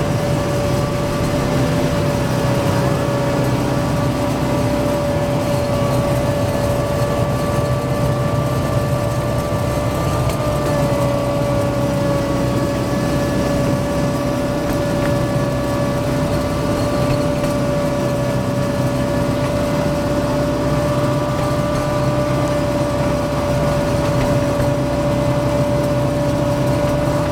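Miniature ride-on train running steadily along its track: a low rumble of the engine and wheels with a steady whine on top that holds one pitch.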